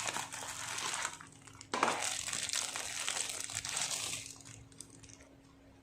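Crinkling, rustling handling noise in two stretches, the second longer, dying away near the end, with a faint steady hum underneath.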